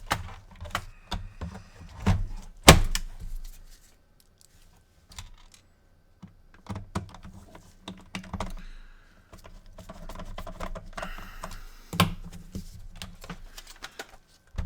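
Hands working inside an opened PlayStation 4 console: irregular sharp clicks and knocks of plastic and metal parts and cable connectors, with a near-silent pause partway through and one sharp knock near the end.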